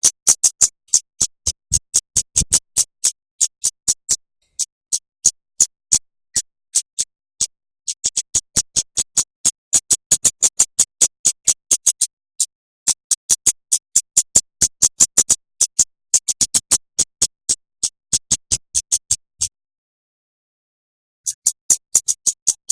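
Rapid series of sharp, high clicking bird notes, about four to five a second, with a pause of nearly two seconds near the end: dense shot-like 'tembakan' notes played as masteran for training songbirds.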